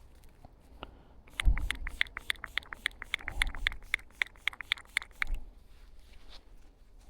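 Metal-detecting pinpointer beeping rapidly over a target, about six short beeps a second for some four seconds, with a low thump as the beeping starts.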